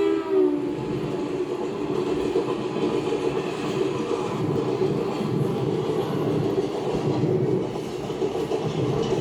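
A diesel locomotive's horn ends with a slight downward slide about half a second in, then the train of coaches rolls on with a steady rumble and the clickety-clack of wheels over rail joints.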